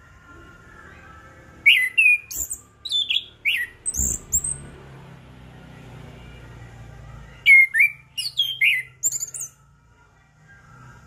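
Chestnut-capped thrush (anis kembang) singing in two loud bursts of quick, high whistled notes, each note swooping downward. The bursts are a few seconds apart.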